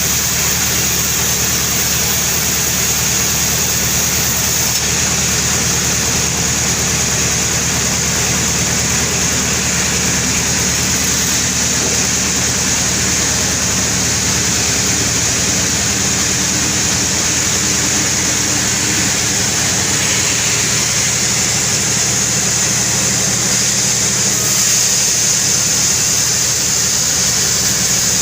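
Sawmill saw running steadily while cutting albasia wood: an even low machine hum with a hiss over it.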